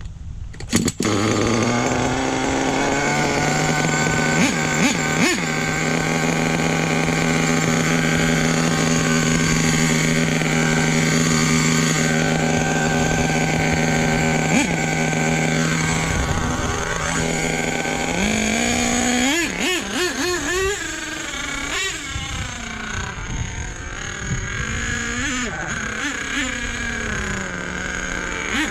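Small nitro RC truck engine that catches about a second in and runs at a steady high pitch, its needle just turned richer after it had died lean. From about 19 s the throttle is worked and the pitch rises and falls again and again.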